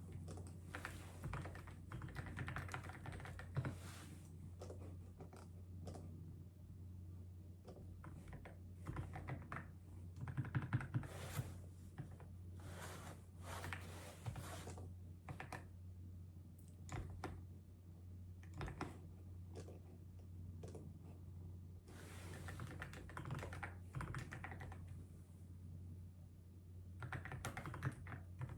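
Typing on a keyboard in bursts of quick key clicks with short pauses between them, over a low steady hum.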